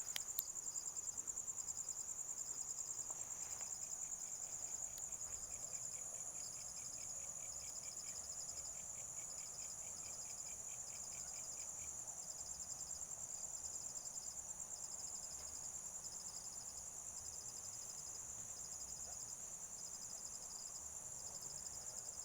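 Chorus of insects calling: a continuous shrill trill with a pulsing chirp repeating about once a second. A second, lower trill of rapid pulses joins from about four seconds in and stops about twelve seconds in.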